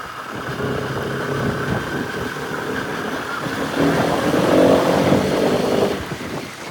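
Bajaj Pulsar RS200's single-cylinder engine running under way on a dirt trail. It gets louder, with higher revs, about four seconds in, then eases off near the end.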